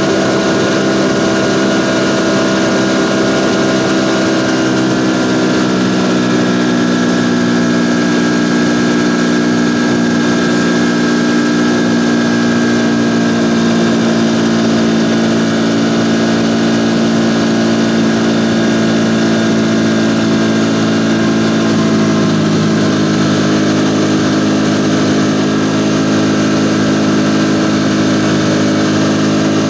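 Ducati Panigale V4's V4 engine running steadily, a loud even drone whose pitch drifts slightly, with a small shift about three-quarters of the way through.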